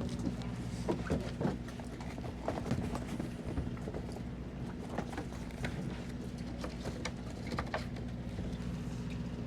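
Twin Suzuki 200 hp outboards idling with a steady low hum, under a series of irregular knocks and clunks.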